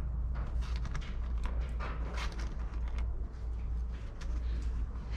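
Scattered knocks, clicks and rustling of the car's interior being stripped, with carpet and trim being pulled and handled, over a steady low rumble.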